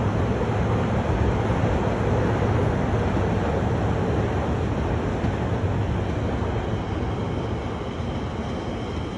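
Elizabeth line Class 345 electric multiple unit running past on the tracks, a steady rumble that eases off slightly near the end.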